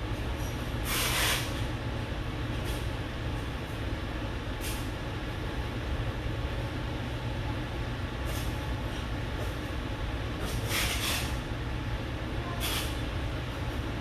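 Steady low background hum with a few short scratchy swishes of a paint-loaded brush dragged across canvas, the longest about a second in and around the eleven-second mark.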